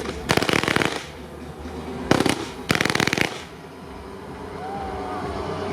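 Fireworks going off at close range: sharp single bangs and two dense bursts of rapid crackling, the second ending about three and a half seconds in, after which it is quieter.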